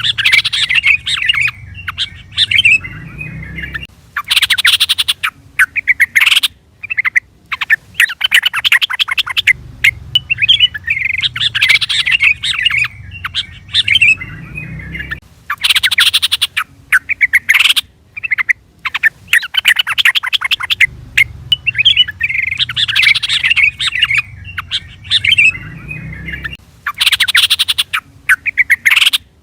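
Sooty-headed bulbul (trucukan) calls: bursts of rapid, chattering song with short pauses between them. The same sequence repeats about every eleven seconds, like a looped lure recording.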